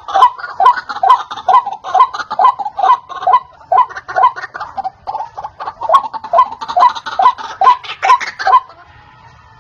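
White-breasted waterhen (ruak-ruak) calling, a rapid run of loud, repeated croaking notes about two and a half a second, played as a bird-trapping lure call. The calling stops shortly before the end.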